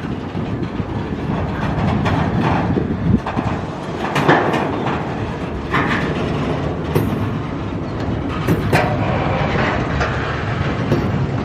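CSX freight train cars rolling past close by: a steady rumble and clatter of wheels on rail, with a few sharp metallic clanks scattered through it.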